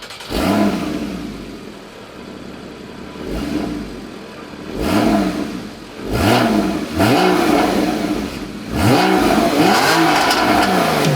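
Porsche 981 Cayman S's 3.4-litre flat-six engine through a full Armytrix valvetronic exhaust, flaring once at the start and settling, then blipped in a series of quick revs that rise and fall, coming closer together in the second half.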